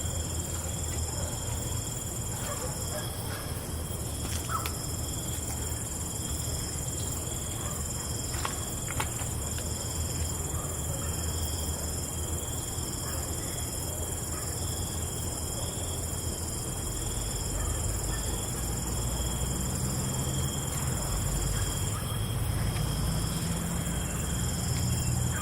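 Night insect chorus of crickets: several steady, high-pitched trills layered together, one of them pulsing in a regular chirp, over a low, steady rumble, with a few faint clicks around the middle.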